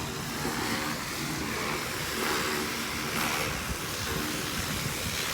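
Pressure washer running while the roof is washed: a steady engine hum under the even hiss of the water spray.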